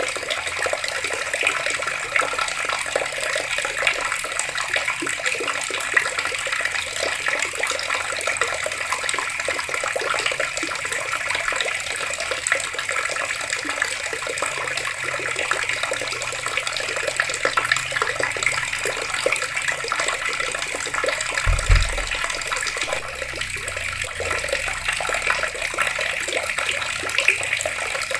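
Water running steadily from taps and splashing down. A brief low thump about three quarters of the way through.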